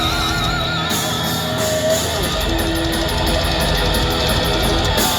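Thrash metal band playing live: distorted electric guitars with a held, wavering note about a second in, then drums with fast repeated cymbal hits under the guitars.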